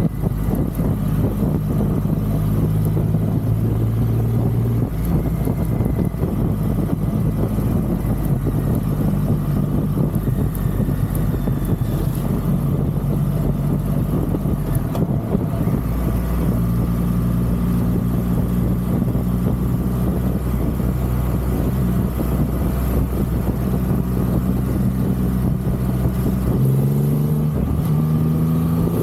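Triumph Rocket 3's three-cylinder engine running at a steady cruise, with wind rushing past the microphone. Near the end the engine note rises as the bike accelerates.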